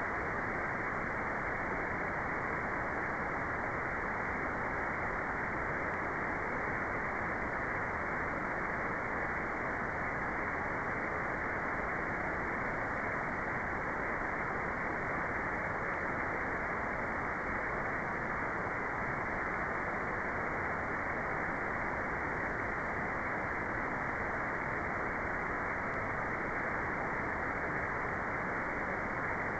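Steady, unchanging white noise with the treble cut off, so it is a dull, even rush with no bright hiss.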